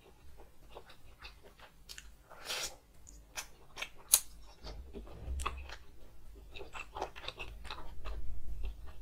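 A person chewing and biting meat and rice eaten by hand, close to the microphone, with wet smacks and crunching. A sharp crack comes about four seconds in, and there are dull low bumps around five seconds and near the end.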